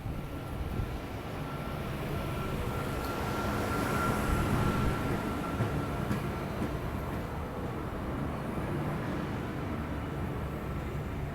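NSW V-set electric multiple-unit train running into the platform, a steady rumble of the train with a thin high whine held over it, growing a little louder for the first few seconds.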